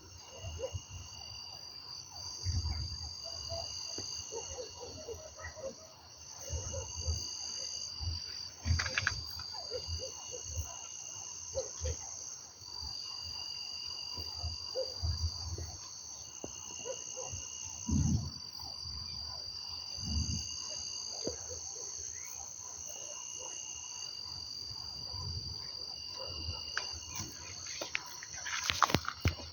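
Insects chirping in a steady chorus of high trills that come and go in stretches of a few seconds, with irregular low thumps and knocks underneath.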